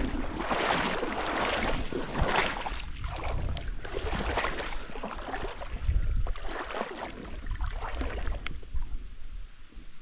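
River water sloshing and splashing in irregular swishes, as from wading, over a low rumble of wind on the microphone.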